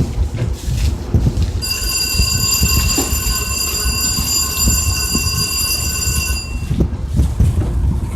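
Passing train with a steady high-pitched squeal, several tones at once, that sets in about one and a half seconds in and stops about five seconds later, over a low rumble.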